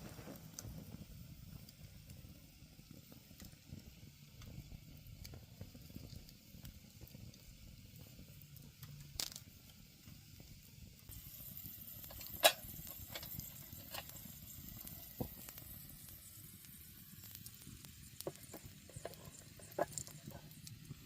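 Wood campfire burning: a soft hiss with scattered crackles and pops, one sharp pop standing out about halfway through.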